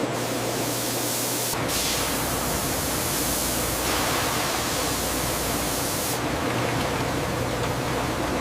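Steady rushing noise of factory processing machinery, with a low hum under it that shifts about a second and a half in.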